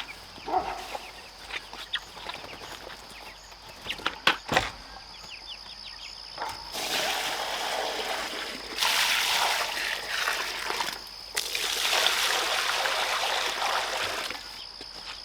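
Water pouring and splashing into a container in three long runs of about two seconds each, with short breaks between them, after a few seconds of scattered light knocks.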